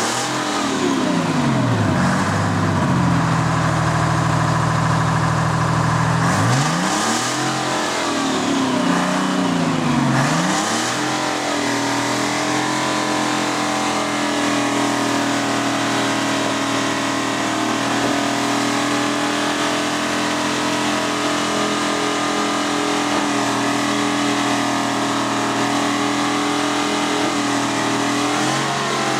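Detroit Diesel 6V-53 two-stroke V6 diesel being revved: it falls back from a rev, runs low for a few seconds, is blipped up and down twice, then holds a steady speed for the rest of the time.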